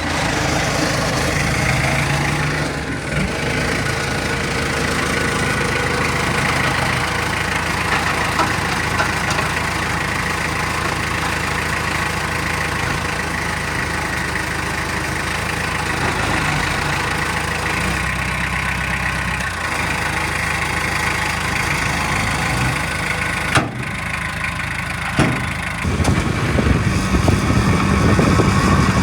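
Diesel engine of heavy earthmoving machinery running steadily. Two sharp knocks come about a second and a half apart late on.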